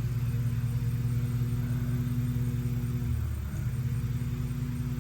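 Steady low motor hum, with a brief change in pitch about three seconds in.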